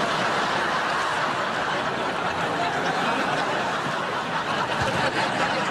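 Studio audience laughing, a steady crowd laugh that fades out near the end.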